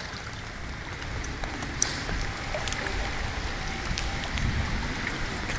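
Heavy rain pouring down, a steady hiss with scattered sharp drop impacts, growing gradually louder.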